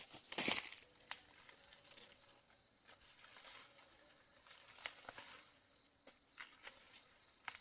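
Rustling handling noises: a loud rustle about half a second in, then scattered light clicks and soft rustling.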